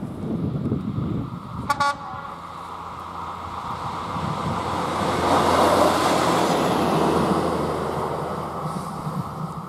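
A train passing close by, its running noise swelling to a peak midway and easing off. About two seconds in, a locomotive horn gives one brief toot, a driver's greeting to the trackside onlooker.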